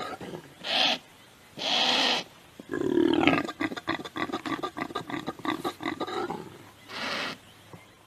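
A wild animal calling: two short harsh breathy calls, then a longer run of rapid grunting pulses, and one more harsh call near the end.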